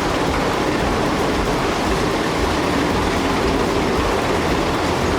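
Steady, even rumble of heavy vehicles running, with no clear rhythm or change.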